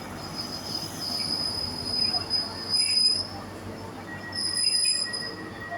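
ScotRail High Speed Train led by class 43 power car 43145 arriving at the platform, giving several high-pitched squeals as it slows, with a lower steady squeal joining about four seconds in.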